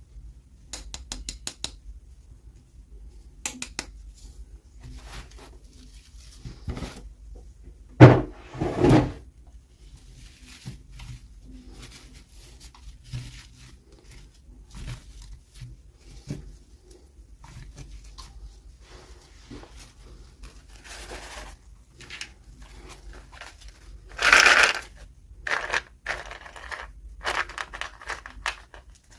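Hands unboxing small plastic toys: scattered clicks and taps of plastic pieces and packaging, with two louder bursts of packaging noise, one about eight seconds in and one near twenty-four seconds.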